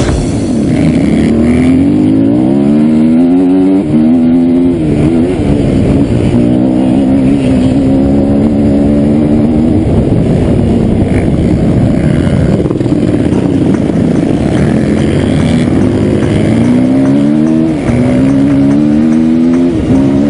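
Enduro dirt bike engine revving hard, its pitch rising and falling again and again as the throttle is opened and closed, steadier for a stretch in the middle.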